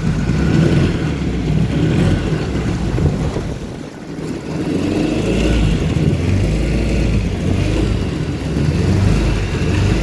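Boat engine running with a low rumble, dipping briefly about four seconds in.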